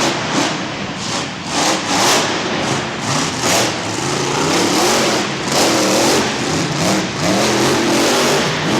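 Monster truck engine revving hard, its pitch rising and falling again and again over a loud, rough noise.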